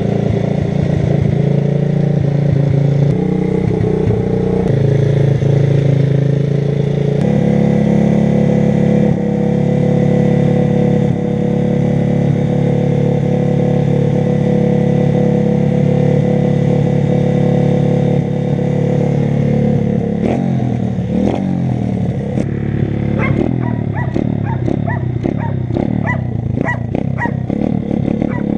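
125 cc pit bike engine running at a steady speed, its pitch stepping to a new level about seven seconds in. From about twenty seconds in, a rapid run of sharp exhaust pops and crackles sounds over the engine.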